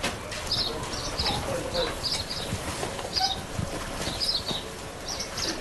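Birds chirping in the background: short high chirps, often in quick pairs or triples, repeating every half second or so, with a few soft low knocks underneath.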